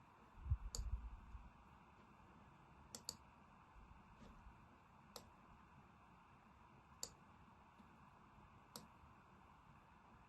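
Computer mouse clicks over near silence: single clicks every couple of seconds, with a quick double click about three seconds in. A low thump and rumble comes about half a second in.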